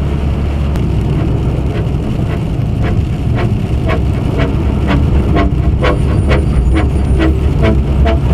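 Steady low rumble of engine and road noise heard from inside a vehicle's cabin as it drives through a snowstorm. From about three seconds in, a regular tapping comes in at roughly two beats a second.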